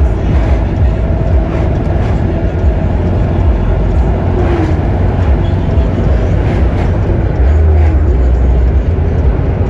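Steady motor-vehicle and road noise with a heavy low rumble, which grows louder about seven and a half seconds in.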